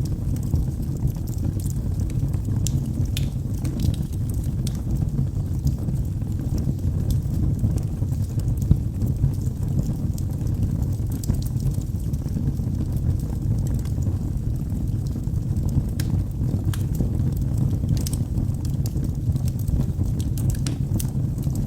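Wood logs burning in a fireplace: a steady low rumble of flames with frequent small sharp crackles and pops scattered irregularly.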